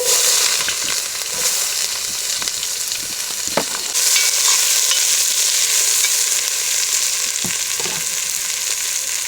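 Chopped onions sizzling steadily in hot coconut oil in a cast iron pot as they are stirred, with a few light knocks in the second half.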